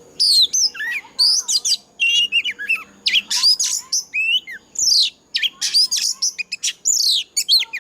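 Oriental magpie-robin singing a fast, varied run of loud whistled notes and sweeping glides, with only short breaks between phrases.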